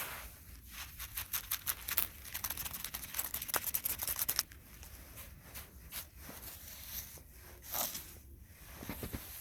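Close hand-work sounds of gardening: a dense run of crackling and rustling for about four seconds, then scattered clicks and rustles.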